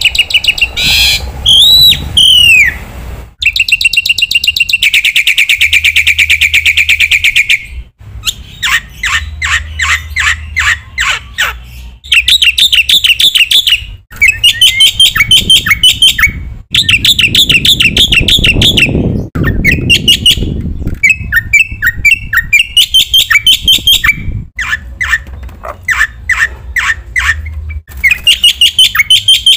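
Black-winged myna (jalak putih) singing a long, varied song: fast runs of repeated chattering notes, trills and whistled slurs. It comes in phrases of a few seconds that stop abruptly with brief gaps.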